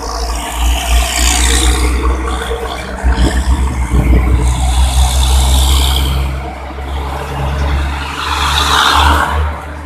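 Heavy trucks with diesel engines running and pulling through a road junction, a steady low rumble throughout, with rushes of noise as vehicles pass about a second in, around the middle and near the end.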